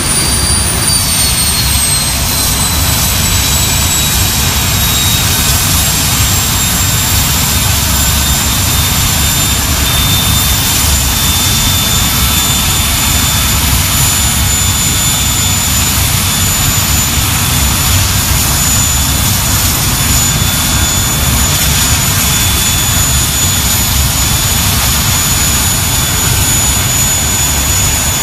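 Avro Vulcan XM655's Rolls-Royce Olympus turbojets running on the ground: a loud, steady roar with a high compressor whine. The whine falls in pitch over the first several seconds, then holds steady.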